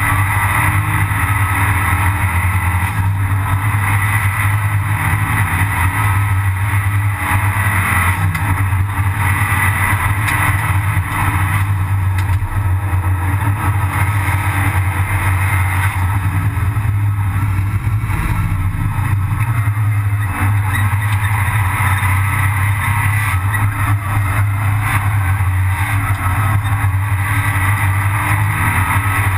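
Abarth 500 Assetto Corse race car's turbocharged four-cylinder engine running hard at racing speed, heard from inside the stripped cabin along with steady road and wind noise. The engine note shifts in pitch a few times as the car goes through the corners.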